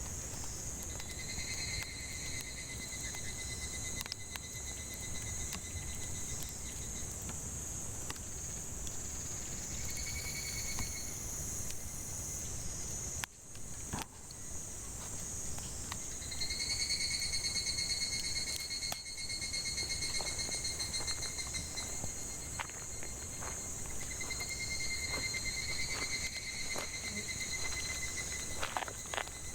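Cicadas buzzing in a steady, high-pitched chorus, with a second, lower pulsing call that comes and goes in stretches of several seconds. A few sharp crackles from the burning firewood, mostly near the end.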